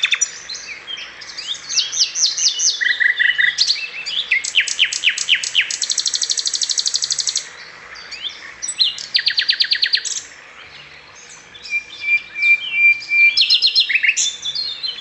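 Canary singing a long song of rapid trills, each a quick run of repeated notes that changes pitch and speed from phrase to phrase, with a held whistle about twelve seconds in.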